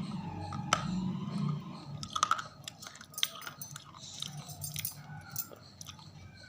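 Close-up biting and chewing of hard, crunchy pieces in the mouth: a run of sharp, crisp crunches and crackles, densest from about two seconds in.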